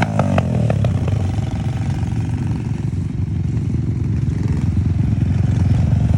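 Wind buffeting the microphone and a low rumble from riding an electric scooter at speed, with a few clicks and rattles in the first half second.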